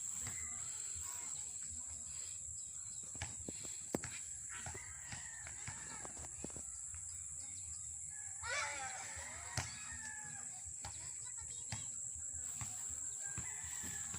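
A rooster crows once, about eight seconds in, over a steady high-pitched insect buzz, with a few sharp clicks.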